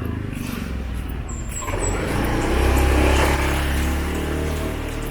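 A motor vehicle's engine running close by, growing louder to a peak about three seconds in as it passes, then easing off slightly.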